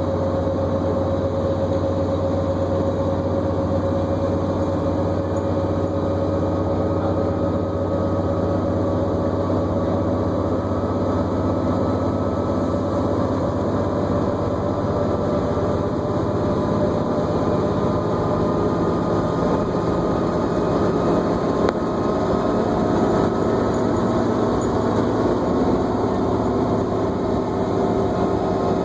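New Flyer D40LFR diesel bus heard from inside the cabin while driving: steady engine and road noise with a high drivetrain whine that climbs slowly in pitch.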